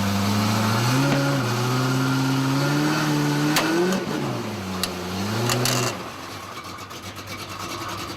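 Off-road truck engine revving up and down under throttle, rising in pitch over the first few seconds, then easing and rising again, with a few sharp knocks from the truck midway. The engine note drops away about six seconds in.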